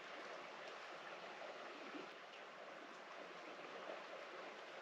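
Faint, steady hiss of outdoor background noise, with a few soft ticks.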